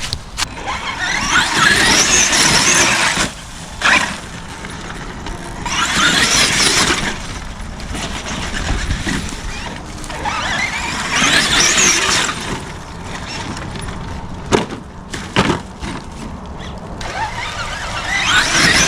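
A Traxxas X-Maxx electric RC monster truck's motor whines in four bursts of throttle, with its wheels spinning on loose ground as it struggles up a steep hill. Between the bursts come a few sharp knocks.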